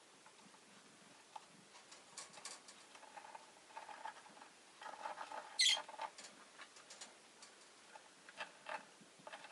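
Rosy-faced lovebird making soft, scratchy chattering and rustling sounds, with one short, sharp high chirp a little past halfway.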